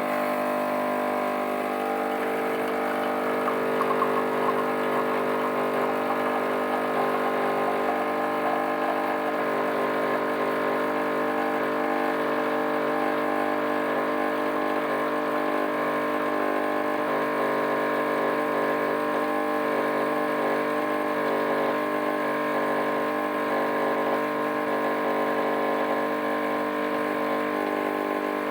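DeLonghi Magnifica bean-to-cup coffee machine running its vibratory water pump, a steady buzzing hum that holds for the whole stretch as it pumps water through the brew unit.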